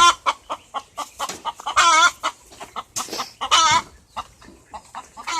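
Chickens clucking in quick short notes, with two louder, drawn-out wavering squawks about two and three and a half seconds in.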